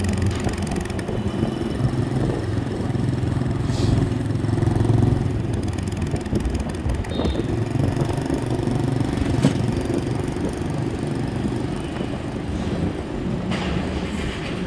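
Road traffic with motorbike engines, a steady low rumble with a few brief clicks.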